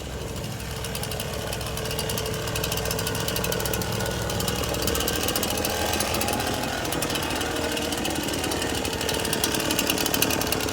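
A machine running steadily with a fast, even pulsing buzz and a steady hum, growing louder over the first few seconds and then holding.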